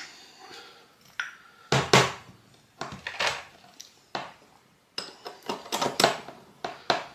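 Metal brake caliper parts clinking and knocking as they are handled and fitted together, a series of irregular knocks.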